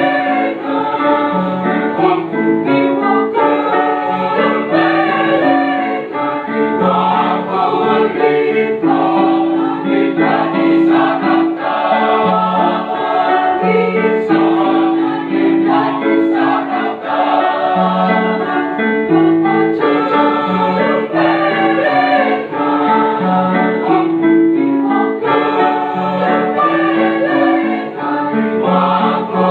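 Choir singing in several voice parts, with sustained, moving notes.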